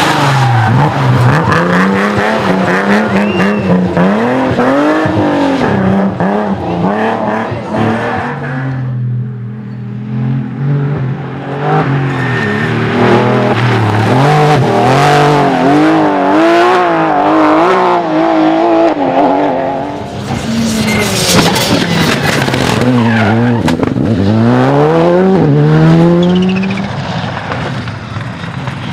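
Rally cars driven hard on a stage: engines revving high and dropping back again and again through gear changes and braking, with a quieter lull about nine seconds in and another about twenty seconds in.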